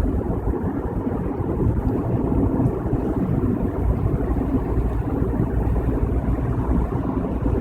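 Steady low road noise inside a moving car's cabin at freeway speed: tyres on the wet road and the engine running, an even rumble with no sudden events.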